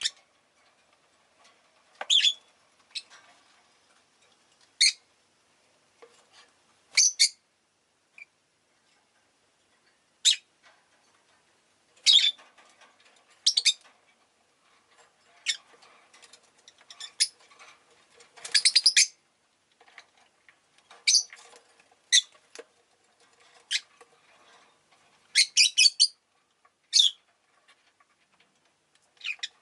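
Rosy-faced lovebirds giving short, sharp, high-pitched chirps at irregular intervals, some in quick clusters of several calls.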